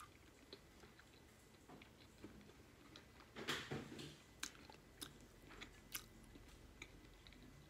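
Faint close-up chewing of boiled egg in butter sauce, louder for a moment about three and a half seconds in, with a few sharp clicks after it.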